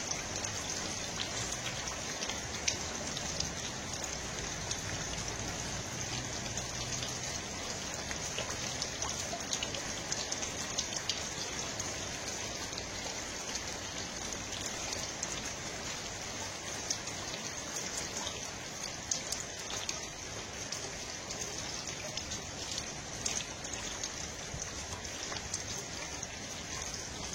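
Steady rain-like hiss with many small, irregular ticks scattered through it.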